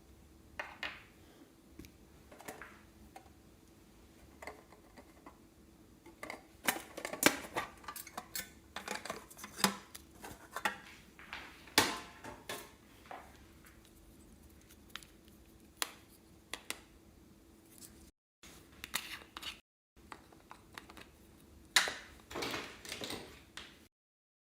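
Slime being worked by hand: bursts of sticky clicks and small crackling pops, thickest about a third of the way in and again near the end.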